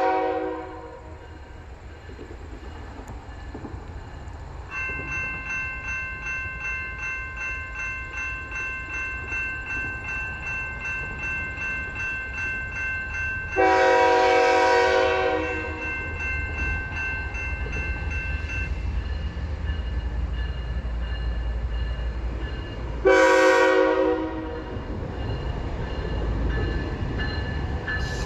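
Locomotive horn sounding in separate blasts: one ends just at the start, a long blast comes about halfway through and a shorter one near the end, as a train approaches and passes. A bell rings about twice a second through the first half, and the low rumble of the train grows louder in the second half.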